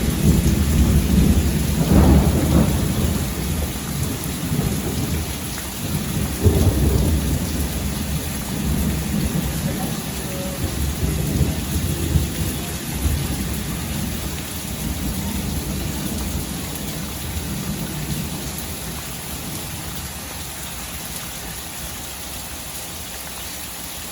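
Steady rain falling, with a long rumble of thunder that swells about two seconds in and again around six seconds, then fades away, leaving the rain hiss.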